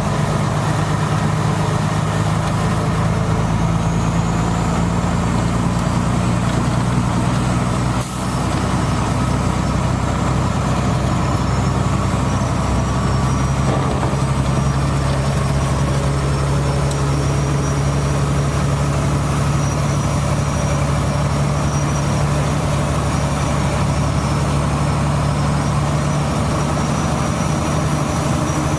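A steady low engine hum, like an idling vehicle, under a constant hiss, with a brief dip in level about eight seconds in.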